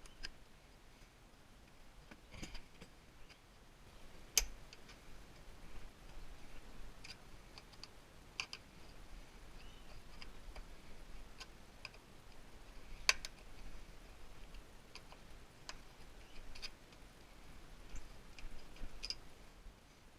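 Scattered faint clicks and ticks at irregular intervals, with two sharper clicks, one a little over four seconds in and one about thirteen seconds in.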